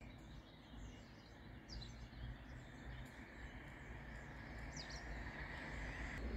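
Two short, falling bird chirps over a faint, steady low outdoor rumble, with a soft hiss that swells near the end.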